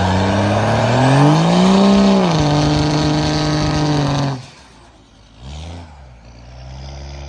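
Vehicle engine running loud, revving up about a second in and settling back down, then cutting off abruptly a little over four seconds in. A quieter engine hum follows.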